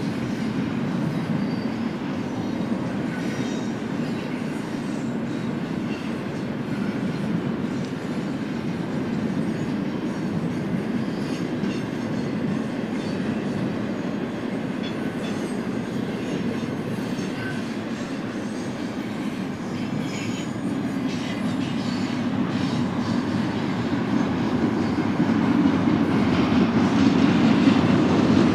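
BNSF intermodal freight train rolling past, a steady rumble of steel wheels on rail with faint clicking, growing louder near the end.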